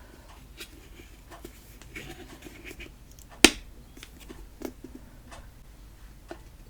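Light clicks and taps from slime-making containers being handled, probably while the activator is added, with one sharp click about halfway through.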